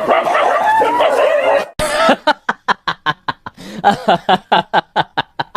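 A wavering, high-pitched vocal sound, then from about two seconds in hard laughter in quick, rhythmic bursts, about four or five a second.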